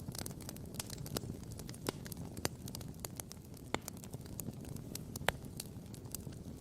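Wood campfire crackling and popping: irregular sharp snaps, several a second, some louder pops standing out, over a steady low rumble.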